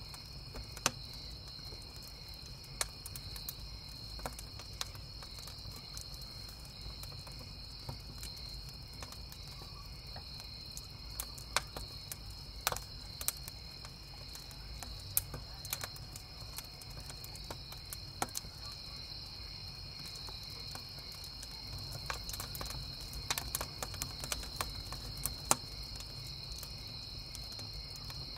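Crickets chirping steadily in a high, even chorus, with a campfire's burning wood crackling and popping in sharp, irregular snaps.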